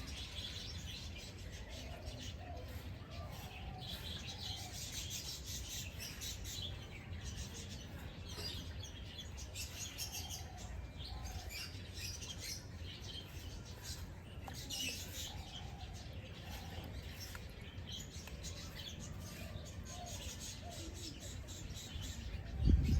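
Many small birds chirping and twittering, with short calls overlapping throughout, over a steady low background rumble. A sudden louder burst of noise starts right at the end.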